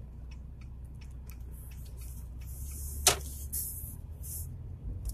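Lada Granta Cross engine running steadily, a low even hum heard from inside the cabin, with one sharp click about three seconds in.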